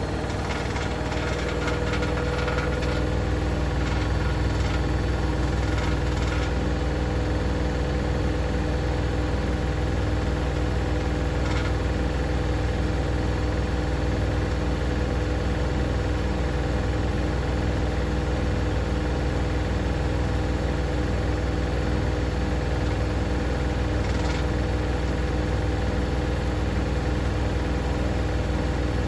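Hoover DynamicNext DXOA410C3 washing machine spinning at speed, with a steady motor whine over a low, pulsing hum from the drum.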